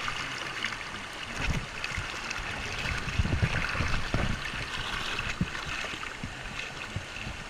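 Creek water rushing over a small rapid, a steady hiss, with irregular low thumps and splashes that are loudest around the middle.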